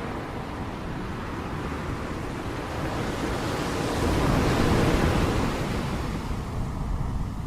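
Ocean surf: a wave builds, breaks and washes out, swelling to its loudest about halfway through and then ebbing, with wind on the microphone.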